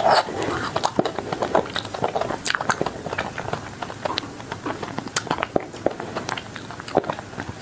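Close-miked biting and chewing of a frozen ice-cream bar with a hard yellow coating. A loud bite comes right at the start, then a steady stream of small crunches and crackles as the frozen shell is chewed.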